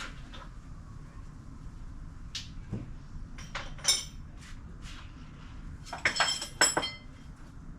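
Metal tools and parts clinking and clattering in scattered knocks with a ringing after them, busiest about six to seven seconds in.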